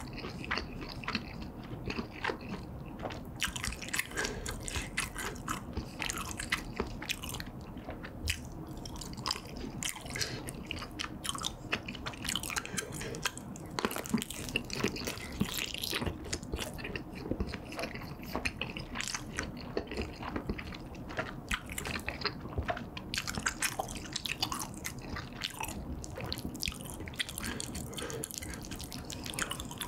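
Close-miked chewing and biting: a continuous stream of wet, sticky mouth clicks and smacks from eating chewy tteokbokki rice cakes in red sauce, with bites into a kielbasa sausage.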